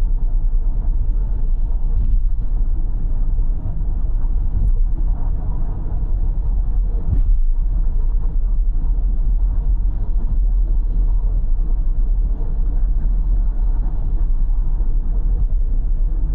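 Steady rumble of a car travelling at expressway speed, heard from inside the cabin: low tyre and road noise with the engine beneath it.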